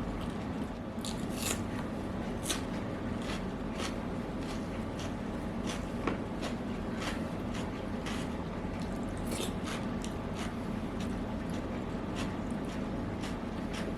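Eating sounds close to the microphone: chewing and wet mouth smacks as many short, irregular clicks, over a steady low hum.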